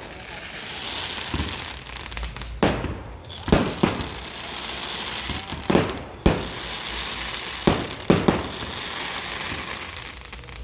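Fireworks going off: about seven sharp bangs spaced a second or two apart, over a steady crackling hiss.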